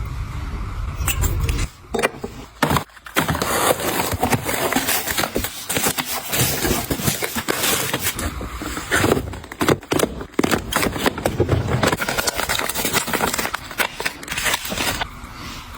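Hands handling packaging and products, with rustling and crinkling broken by scrapes and small clicks.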